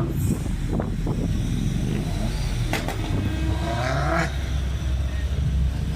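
Car engines running at low revs, with a few short sharp clicks on top.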